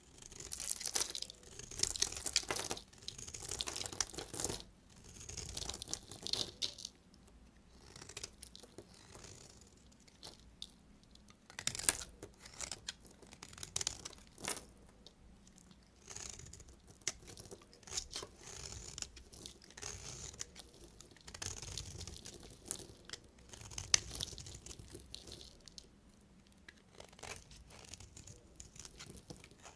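Knife cutting through bars of soap: a run of crunchy, scraping strokes a second or two long each, with a sharp crack now and then.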